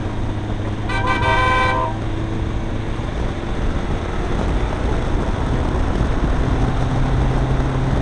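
Renault Kangoo's diesel engine droning steadily under way, heard inside the cabin with tyre and road noise, its pitch stepping up a little about two-thirds of the way in. Near the start a horn sounds once for just under a second.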